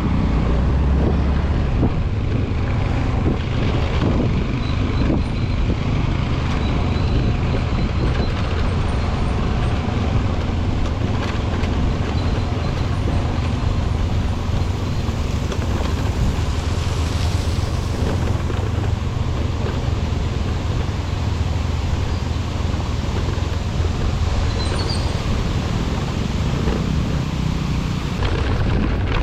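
Vehicle engine running steadily, with road and wind noise.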